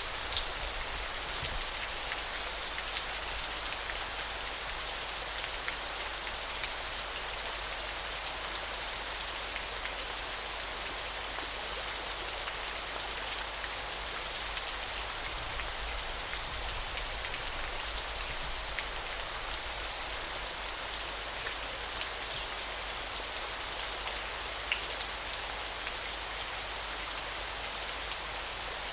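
Steady hiss of flowing water. Over it, a thin, high-pitched trill repeats about ten times in stretches of a second or two, stopping a little over two-thirds of the way through.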